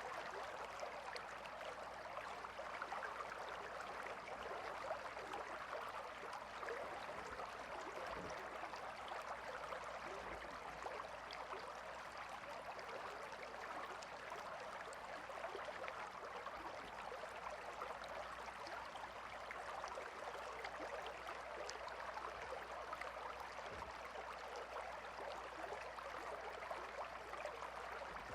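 Steady rush of flowing river water, an even gurgling babble with no breaks.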